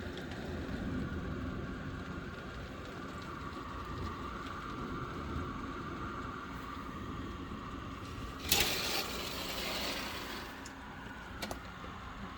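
Steady noise of a rainstorm with a low rumble, and a sudden loud rush of noise about eight and a half seconds in that fades over a second or so.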